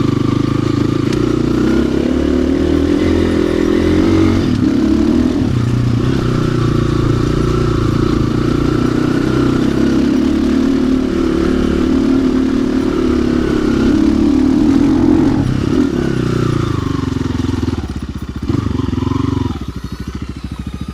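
RXB 250XL dirt bike engine under heavy load on a steep muddy hill climb, revs rising and falling as the throttle is worked. Near the end the engine drops to low, slower revs.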